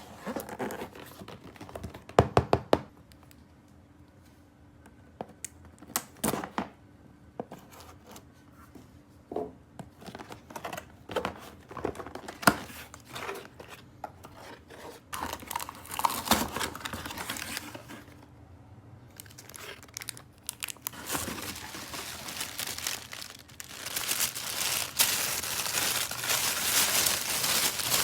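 Toy packaging being unwrapped by hand: scattered clicks, taps and short crinkles of plastic wrap, then steady loud crinkling and tearing over the last few seconds.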